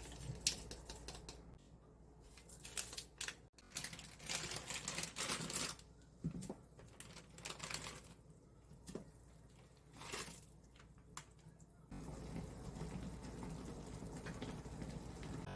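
Irregular runs of light clicks and crackling taps, bunched in clusters, then from about twelve seconds in a steady low hiss with a faint hum.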